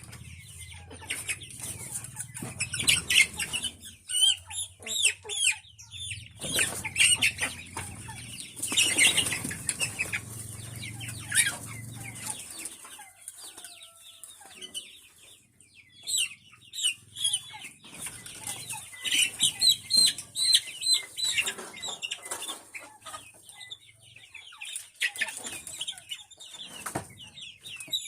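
A flock of chickens clucking and calling, with repeated bursts of wing flapping and scuffling.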